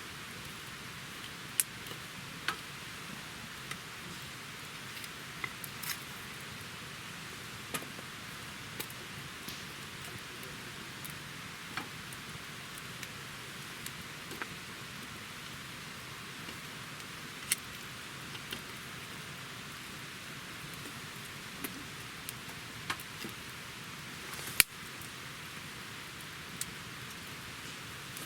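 Wood campfire burning: a steady hiss with irregular sharp crackles and pops from the burning wood, the loudest pop about 24 seconds in.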